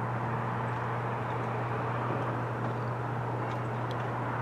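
Coal train giving a steady low drone and rumble. A short sharp sound comes right at the end.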